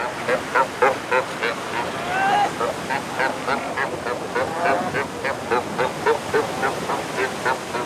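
A crowded Cape fur seal breeding colony calling: many short, bleating calls like a goat's or a sheep's, two or three a second and overlapping, from pups calling for their mothers and mothers answering.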